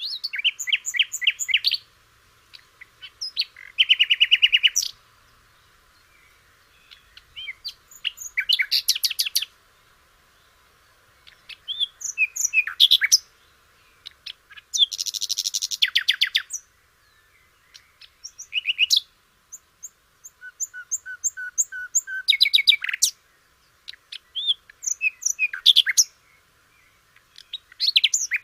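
Nightingale singing: a string of varied phrases of fast repeated notes, trills and pure whistles, each one to two seconds long, with short pauses between them.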